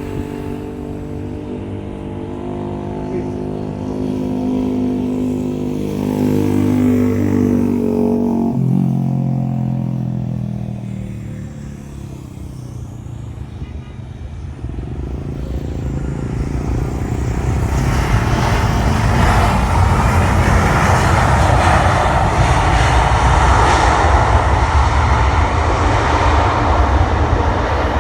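Jet airliner engines passing close by, their whine falling steadily in pitch over the first nine seconds. After a brief lull, a broad jet roar builds from about halfway and stays loud.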